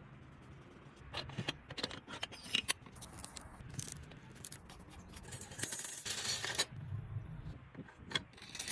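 Scattered light metallic clicks and clinks of small metal parts or tools being handled, with a brief hiss of about a second just before the six-second mark.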